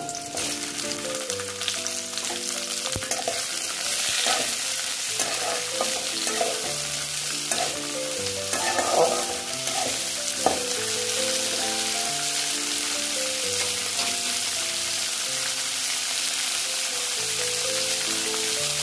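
Hot oil sizzling steadily in a steel kadhai as chopped onion and tomato pieces are dropped in and fried, with a few louder crackles and spatters. Faint background music of slow held notes plays underneath.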